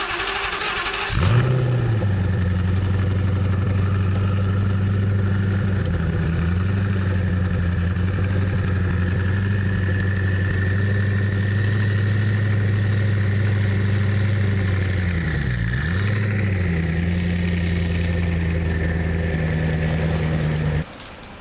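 Koenigsegg One:1's twin-turbo V8 starting. About a second of starter whir, then it catches with a quick rev flare and settles into a steady, deep idle. There is a brief dip and rise in revs about two-thirds of the way through, and the sound cuts off suddenly near the end.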